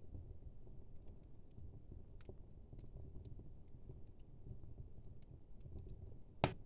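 Logs burning in a wood fire: a low steady rumble with scattered faint crackles, and one loud sharp crack near the end.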